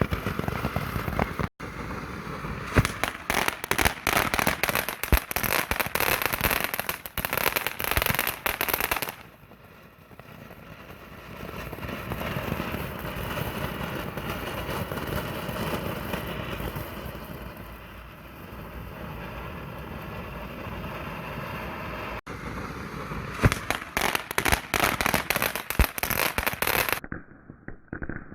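Consumer firework going off: rapid crackling pops for about nine seconds, then a quieter steady hiss, then another spell of dense crackling near the end.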